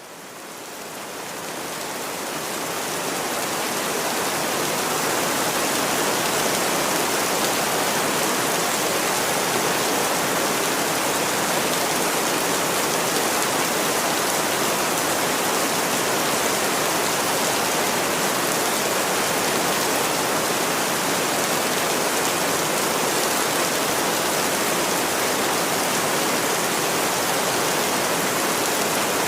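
Steady rain, fading in over the first few seconds and then holding at an even level.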